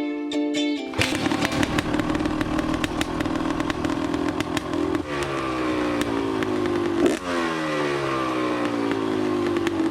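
Dirt bike engine running hard, then easing off from about halfway so its pitch falls, with one quick rev around two-thirds of the way in before it drops away again.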